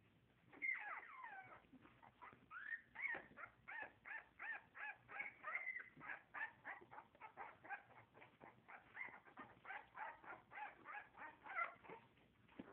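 Puppies whimpering and yipping faintly: a long falling cry about half a second in, then a rapid string of short high cries, about two or three a second.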